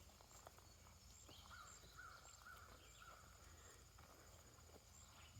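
Near silence: faint outdoor ambience with a short series of faint bird chirps about a second in.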